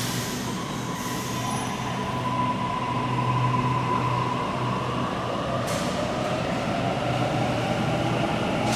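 Electric passenger train in an underground station, running with a steady high whine that climbs slightly in pitch over the first few seconds, over a low hum. A short hiss comes about six seconds in.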